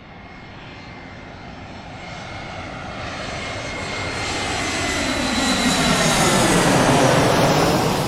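Fixed-wing airplane flying over: it grows steadily louder as it approaches and peaks about seven seconds in, its engine tones sliding down in pitch as it passes and begins to fade.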